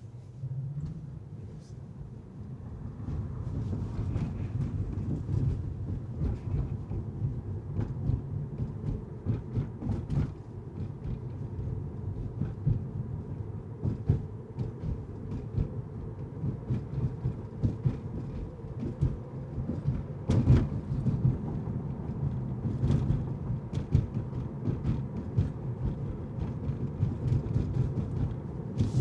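Car driving: a low road rumble with frequent knocks and rattles, growing louder about three seconds in.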